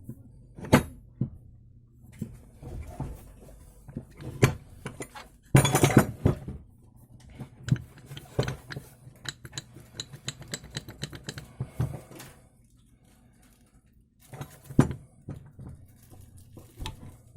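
Metal tools and parts being handled, clinking and clanking in a string of sharp knocks, with a denser rattle about six seconds in and a loud clank after a short lull.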